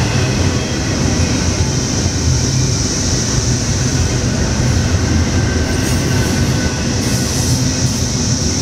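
Double-stack intermodal container train rolling past: a steady, loud rumble of well-car wheels on the rails, with a steady high hiss above it.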